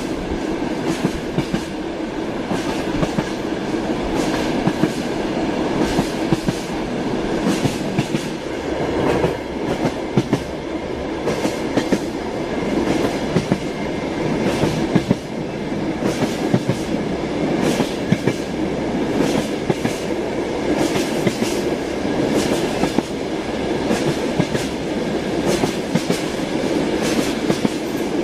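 Train wheels clattering over rail joints as the train runs along steadily, with frequent irregular clicks over a continuous rumble.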